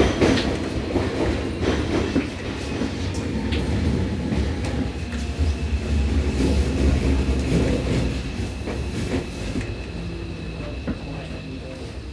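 Seibu 6000-series electric train with Toshiba IGBT inverter, heard from inside a motor car while slowing on the approach to its terminus. There is a low running rumble with wheel clatter over rail joints and points, and a steady high motor whine through the middle seconds. The sound slowly quietens as the train loses speed.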